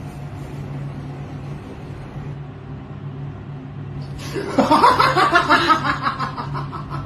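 A steady low hum for the first few seconds, then, about halfway in, loud laughter in quick repeated bursts that run on to the end.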